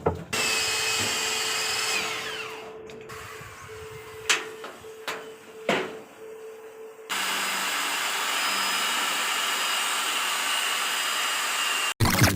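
A power tool runs steadily, then winds down with a falling whine. A few sharp knocks follow before the tool runs again, and that second run cuts off abruptly.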